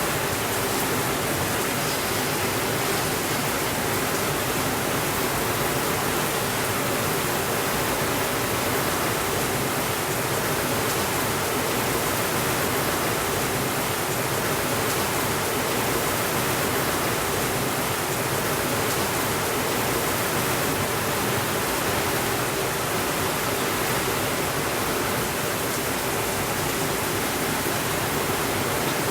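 Steady rainfall, an even hiss that holds at one level with no separate drops or thunder standing out.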